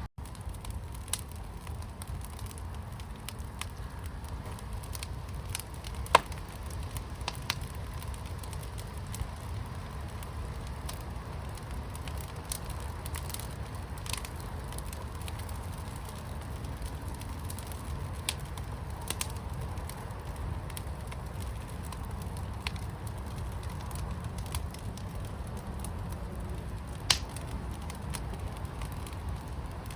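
Fire in a firepit crackling with scattered sharp ticks and pops, two louder pops about six seconds in and near the end, over a steady low rumble.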